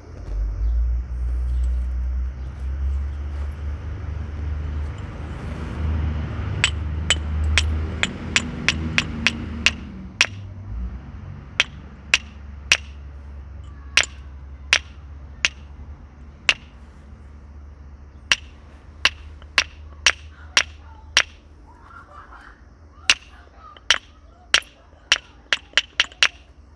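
Flintknapping: a natural knapping tool strikes or presses flakes off a flint biface, giving sharp, short clicks with a brief ring, one or two a second in irregular clusters. A low rumble fills the first ten seconds or so before the clicks begin.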